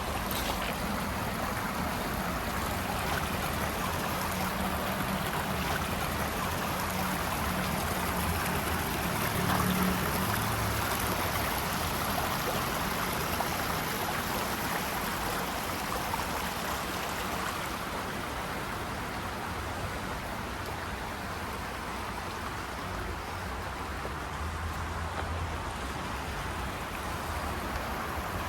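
Mosquito Creek's water rushing steadily over rocks.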